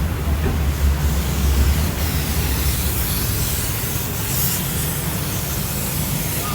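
Compressed-air spray gun hissing over a steady low machinery hum, the hiss growing stronger about two seconds in.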